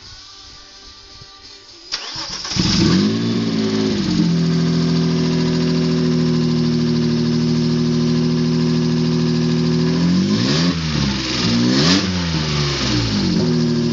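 Vauxhall Astra van's swapped-in V6 engine starting for the first time. It catches after a brief crank about two seconds in, flares up, then settles to a steady idle. Near the end it is revved twice, each time rising and dropping back to idle.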